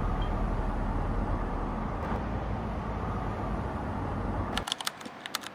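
Steady low rumble and hiss of a moving vehicle, cutting off suddenly about four and a half seconds in. Quick sharp clicks follow near the end.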